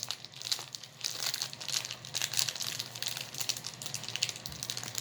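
Snack-cake wrapper crinkling and rustling in a steady run of irregular crackles as it is handled and opened.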